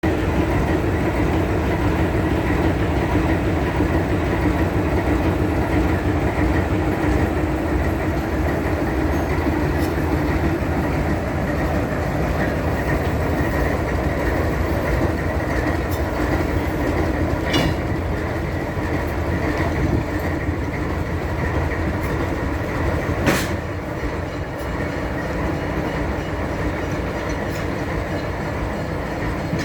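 A train of old railroad cars rolling on track behind a locomotive: a steady heavy rumble, with two sharp metallic clanks about 17 and 23 seconds in, easing a little toward the end.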